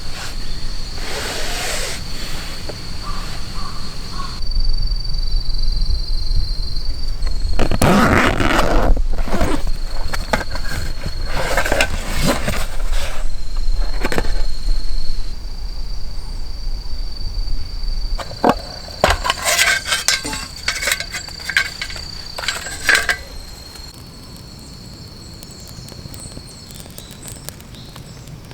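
A steady high insect trill runs in the background, broken by handling noises: repeated clinks and scrapes, bunched around the middle and again a little later. A low wind rumble on the microphone comes in for the first half and drops away before the end.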